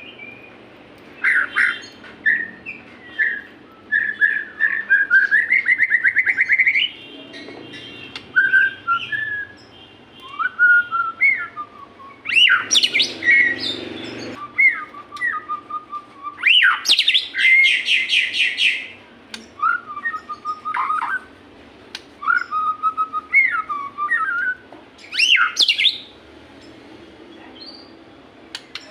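White-rumped shama (murai batu) singing: a run of varied phrases of clear whistles and fast trills, broken by short pauses.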